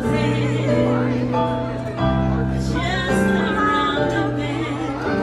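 Live singing with instrumental accompaniment: a sung melody over held bass chords that change about every two seconds.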